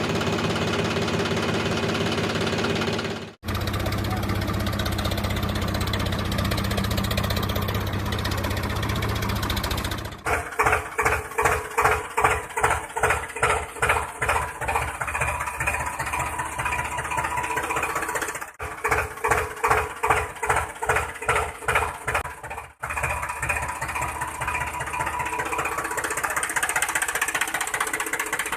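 Engine running, heard in several abruptly spliced stretches. In the middle stretches it chugs in an even pulse of about two to three beats a second, like a tractor engine's knock; elsewhere it runs more steadily.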